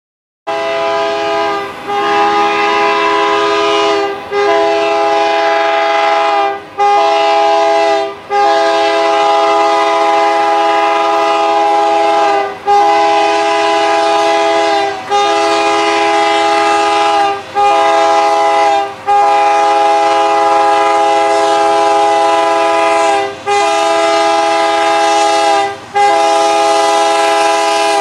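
Diesel freight locomotive's multi-chime air horn sounding a long series of loud blasts, each held a few seconds with brief breaks, the chord steady in pitch. It starts suddenly about half a second in, out of silence.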